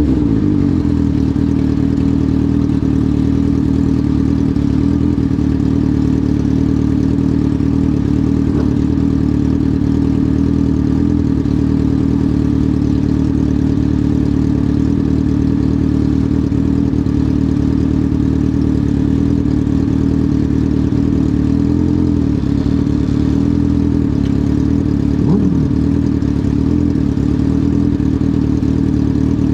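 Dwarf car's Suzuki GSX-R1000 four-cylinder motorcycle engine running at a steady, unchanging speed, loud and even throughout.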